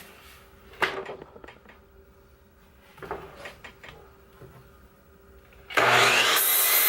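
A few light knocks of wood being handled, then near the end an electric saw starts abruptly and cuts through a wooden framing board, loud and sustained.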